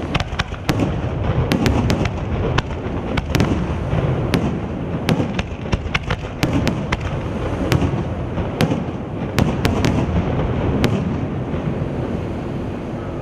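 Aerial firework shells bursting in quick succession: many sharp bangs and crackles over a continuous low rumble.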